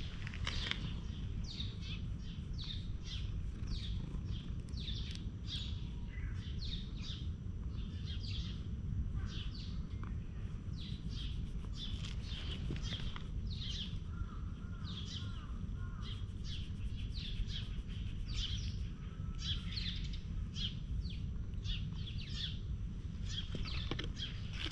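Birds in the trees chirping, many short falling chirps in quick succession, over a steady low rumble of background noise.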